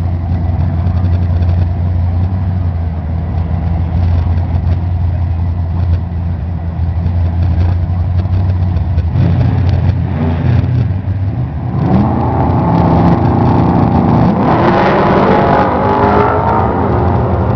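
Nitrous Ford V8 drag cars at the line: a steady low idle rumble, then from about twelve seconds in an engine revved hard and repeatedly, its pitch climbing and falling.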